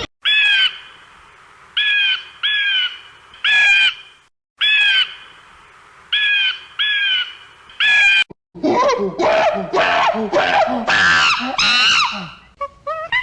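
A bird giving short, harsh, arched calls about once a second. About eight seconds in, this gives way to a dense jumble of many overlapping calls.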